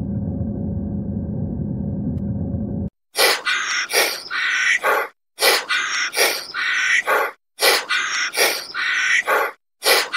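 A steady low rumble cuts off suddenly about three seconds in. Then the same bird call repeats four times, about two seconds apart, each one starting sharply.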